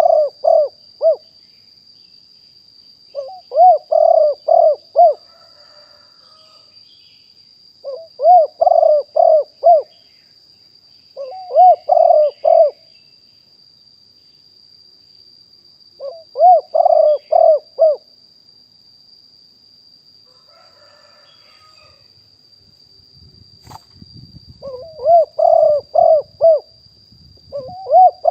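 Spotted dove cooing: a phrase of four or five quick coos repeated about every four seconds, with a longer gap before the last two phrases. Fainter coos come in between some phrases, and a steady high whine runs under it all.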